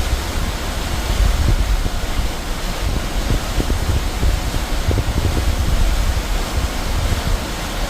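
Mountain stream in flood after torrential rain, rushing loudly and steadily with a deep, unsteady rumble underneath.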